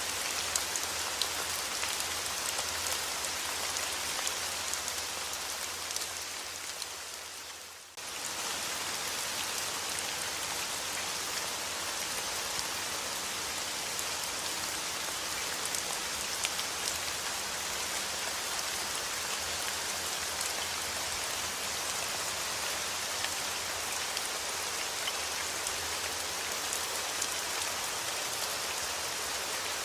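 Steady rain falling, a dense even hiss of drops with individual drop taps scattered through it. About six seconds in it fades down for a couple of seconds, then cuts straight back in at full level, like a loop point in the recording.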